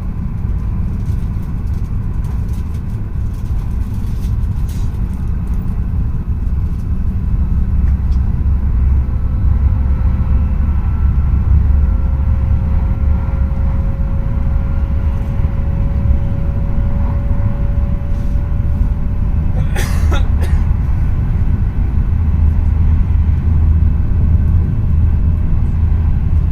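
Tohoku Shinkansen train running, heard inside the passenger car as a steady low rumble. A faint whine slowly rises in pitch through the middle, and a brief burst of sharp clattering comes about twenty seconds in.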